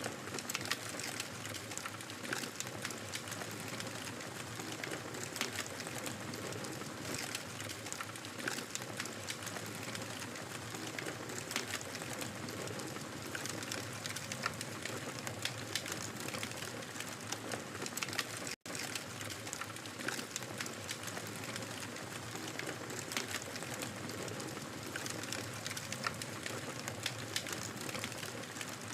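Wood fire burning in a fireplace: a steady hiss and rumble of flame, dotted with frequent small snapping crackles. The sound drops out completely for a split second about two-thirds of the way through.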